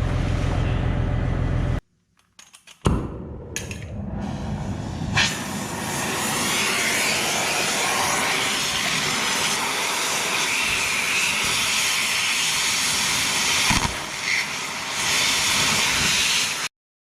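A steady low machine hum, then after a short break a cutting torch hissing steadily for about eleven seconds, heating and cutting old track roller bolts, before it stops abruptly.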